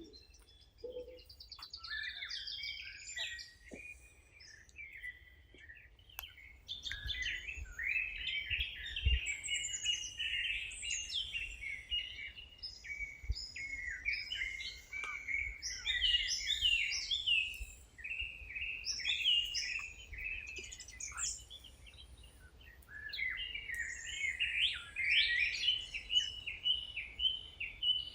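Songbirds singing and chirping together, many quick overlapping calls and trills. The calls are sparse at first and fill into a dense chorus about seven seconds in, with a faint low rumble underneath.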